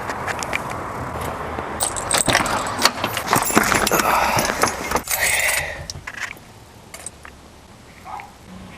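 Car keys jangling, with a run of sharp clicks and rattles over a steady background hum. It grows quieter after about six seconds.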